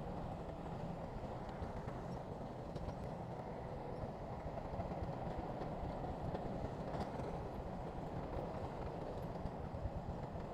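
Heavy earthmoving machinery with a diesel engine running steadily, a continuous low rumble with a few faint clanks.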